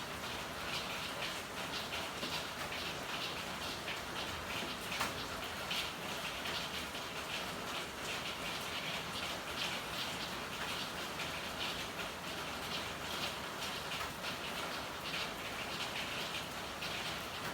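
Steady rain falling, with a dense, irregular patter of drops splashing on surfaces and one sharper tick about five seconds in.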